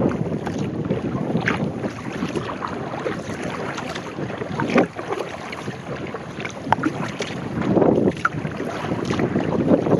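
Sea kayak paddle strokes splashing and water sloshing against the hull, with wind buffeting the microphone. Louder splashes come about halfway through and again near the end.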